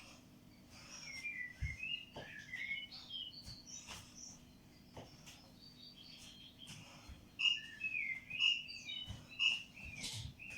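A small bird chirping and warbling in quick, twittering phrases that grow busier in the second half, with a few soft low thuds underneath.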